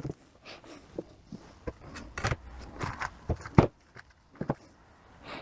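Small metal transmission valve-body parts and hand tools clicking and clinking on a workbench as the valve body is taken apart, a dozen or so irregular knocks with one sharper clack about three and a half seconds in.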